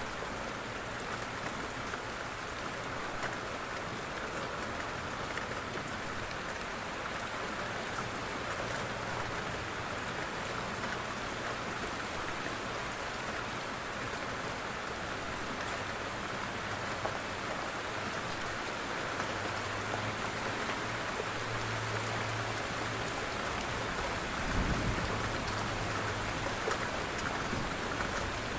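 Steady heavy rain falling on the ground and water. A low rumble of thunder builds over the last third and swells once shortly before the end.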